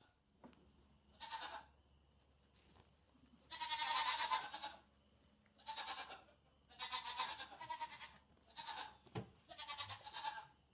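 A goat bleating, about six quavering calls in a row, the longest and loudest near four seconds in.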